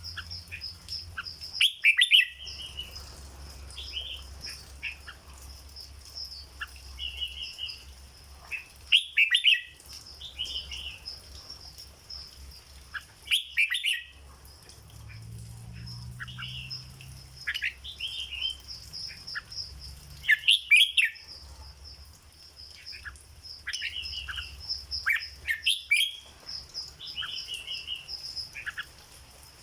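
Red-whiskered bulbul singing: five loud, short warbled phrases spaced about five to seven seconds apart, with softer chirps in between.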